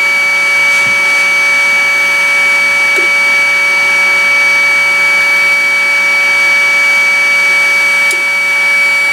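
Hot air rework blower running steadily during BGA socket desoldering: an even rush of air with a constant high whine.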